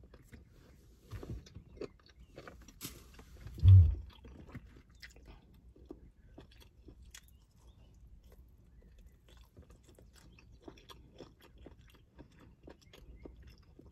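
Close-miked chewing of KFC crispy fried chicken wings, the breading not very crunchy: soft wet mouth clicks and smacks. About four seconds in there is a short, much louder low hum of the eater's voice.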